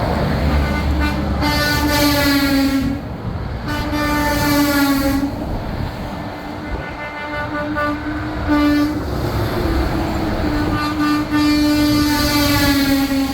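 Semi-truck air horn blowing in several blasts: two of about a second and a half, a short toot, then a long held blast near the end, over the low rumble of passing trucks.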